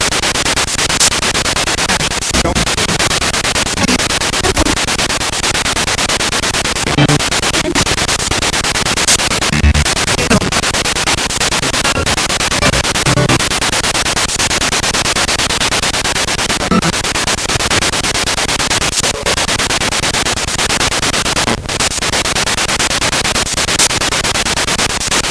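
Spirit box radio sweeping through stations: a steady hiss of static broken by frequent clicks and short snatches of broadcast sound.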